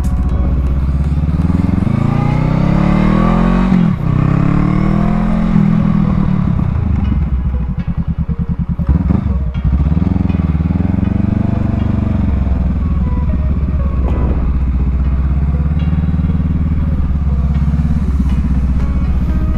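Motorcycle engine revving up and down through slow-speed drill manoeuvres. The pitch climbs to a peak about four seconds in and drops off suddenly. It dips again around eight to nine seconds in, then rises again.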